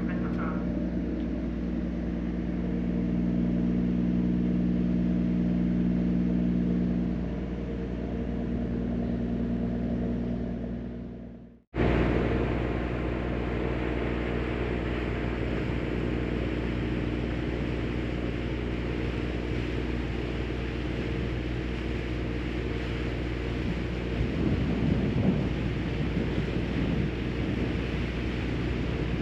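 Steady low rumble of a car ferry's engines, with a hiss of wind and water. The sound dips to silence for an instant about twelve seconds in, then the rumble carries on.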